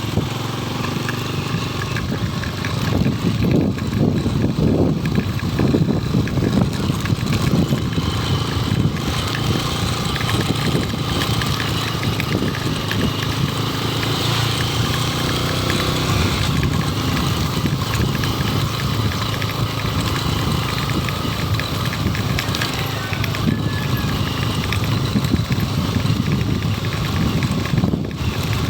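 Motorcycle running steadily while being ridden, a dense low rumble throughout.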